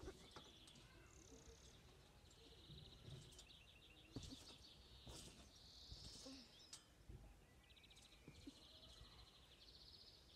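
Faint songbirds singing, with rapid trills and chirps, and a few soft low thumps.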